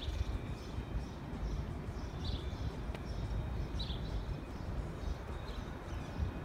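Outdoor ambience of a low, steady rumble from wind and city noise, with four short high bird chirps spaced about a second and a half apart.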